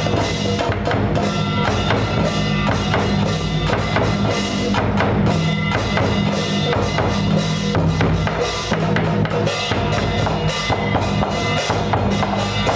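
Percussion music: drums and rapid knocks struck continuously over a held low tone.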